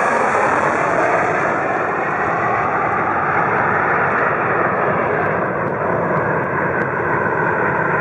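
Jet airliner engines at high power: a loud, steady rushing noise whose high hiss slowly fades over the first few seconds.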